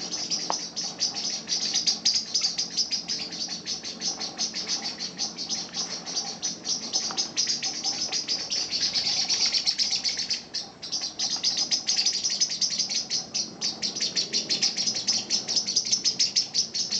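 Eurasian blackbirds giving their alarm call, a rapid, unbroken run of sharp high ticking notes, several a second. It is the mobbing alarm of parent birds defending their young against a cat.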